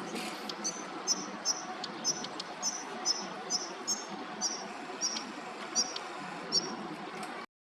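Daurian redstart calling: a dozen or so short, high whistled notes, about two a second, with a few dry ticking clicks between them, over a steady background hiss. The sound cuts off abruptly near the end.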